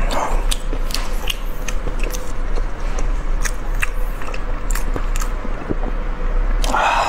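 Close-miked eating sounds of a person biting and chewing braised beef rib meat off the bone: irregular wet clicks and smacks of the mouth.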